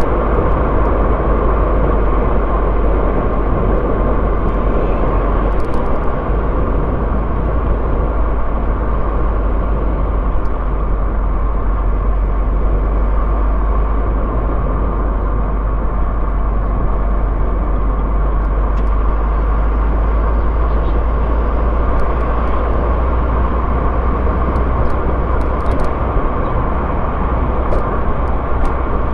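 A car driving along steadily: continuous engine and tyre-on-road noise with a deep low rumble.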